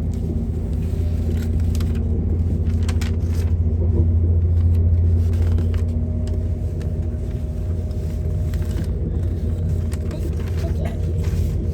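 Diesel passenger train running, heard from inside the carriage: a steady low rumble with faint steady engine tones, swelling for a few seconds midway, with occasional light clicks.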